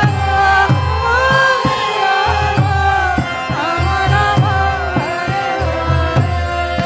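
Kirtan music: a hand drum beats a steady rhythm under a wavering, ornamented sung melody, with steady held tones sounding beneath.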